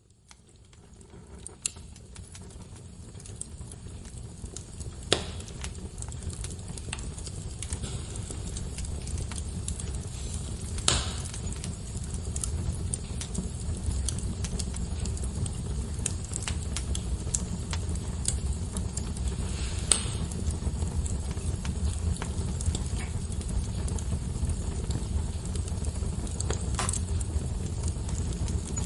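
Wood fire burning: a steady low rumble of flames with scattered crackles and sharp pops, fading up from silence over the first few seconds.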